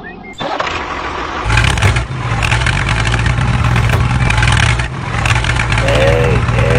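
An engine running steadily, coming in loud about a second and a half in, with a brief wavering tone near the end.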